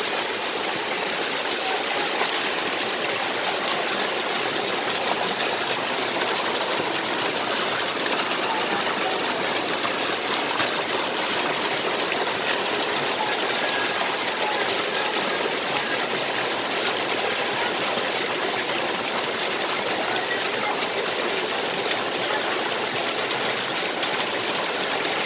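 A small waterfall and stream of flowing water rushing steadily, an even splashing hiss with no change.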